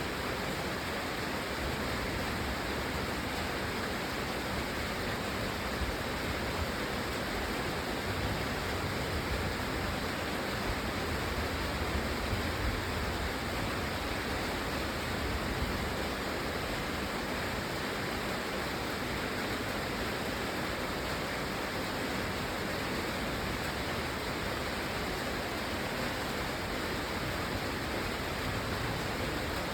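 Steady rain, an even hiss without separate drops standing out.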